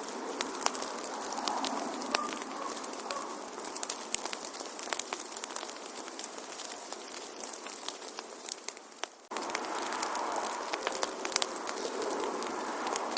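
Wood fire in a fireplace crackling, a steady hiss of burning with many sharp pops and snaps. The sound dips and then cuts back in abruptly about nine seconds in.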